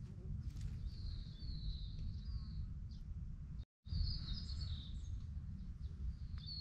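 Birds singing outdoors, several high chirping phrases in a row, over a steady low rumble. The sound drops out briefly a little before four seconds in.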